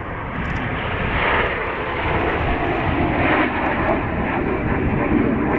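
Red Arrows BAE Hawk jets flying overhead in formation, their Adour turbofans making a steady rushing jet noise that swells slightly about a second in and again near three seconds.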